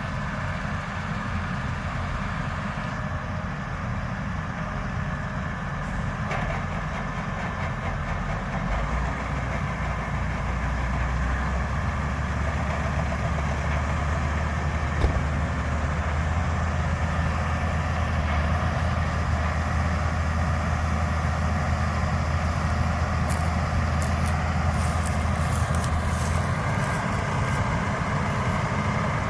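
Heavy diesel farm machinery, combine harvesters and tractors, running steadily in a wheat field. A deep engine hum grows louder about nine seconds in and eases back near the end, with a single knock midway and light rattling near the end.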